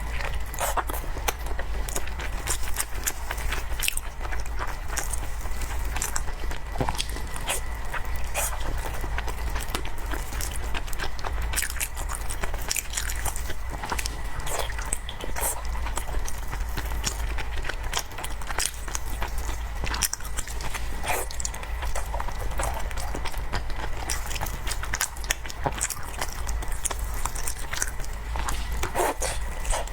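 Close-miked eating of cake: chewing and biting, with frequent short, sharp wet mouth clicks, over a steady low hum.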